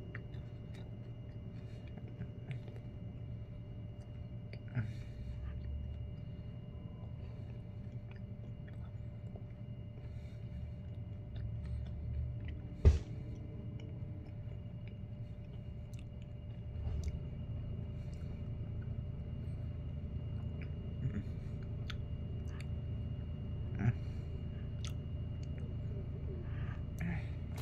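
A person chewing a chocolatey chip cookie dough Rice Krispies treat close to the microphone: soft, scattered mouth clicks and faint crunches over a low steady hum. One sharp knock about halfway through.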